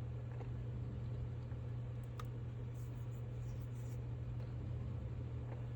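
A steady low hum with a few faint clicks and taps.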